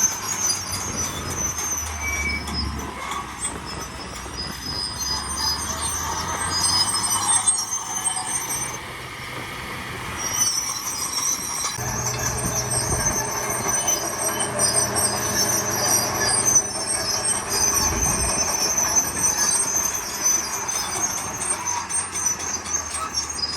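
Heavy earthmoving machinery at work: a diesel engine running low and steady, with sustained high-pitched metallic squealing over it.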